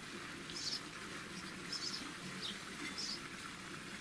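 Faint bird chirps: short, high calls, some falling in pitch, repeating about once a second.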